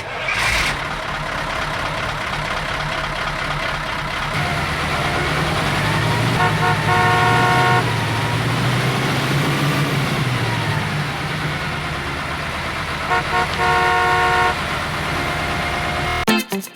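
Motor vehicle running with steady engine and road noise while its horn sounds twice in the same pattern, two short toots and then a longer blast, about six and thirteen seconds in. Music starts right at the end.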